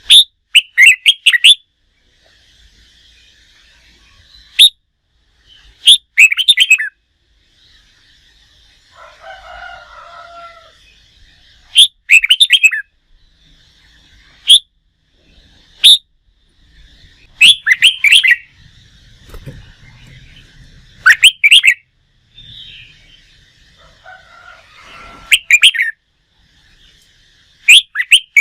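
Red-whiskered bulbul singing loud, short, rapid song phrases, one every two to four seconds, with faint twittering from other birds in between. Song used to stimulate wild-caught bulbuls for song training.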